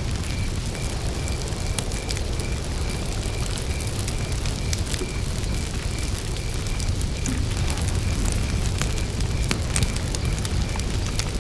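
Wood campfire burning, a low rush of flames with scattered sharp crackles and pops of burning wood. Behind it a cricket chirps steadily in short, evenly spaced pulses, a few a second.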